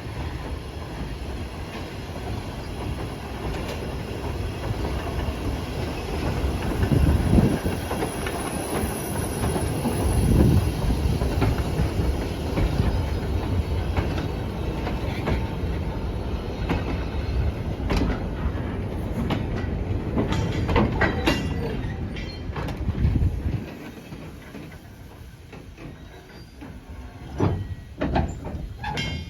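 Steam locomotive moving slowly along the track: a steady rumble with a few heavier surges. It fades about two-thirds of the way through, leaving separate clanks and knocks of wheels over rail joints.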